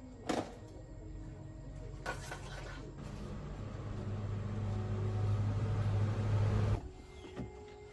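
A sharp click, a short hiss, then a steady machine hum that grows louder for a few seconds and cuts off suddenly near the end.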